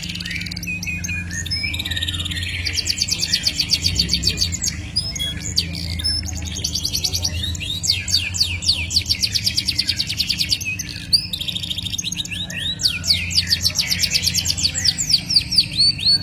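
Songbird singing in long, fast high-pitched trills and rapid runs of repeated notes, the phrases following one another almost without a break. A steady low hum lies beneath.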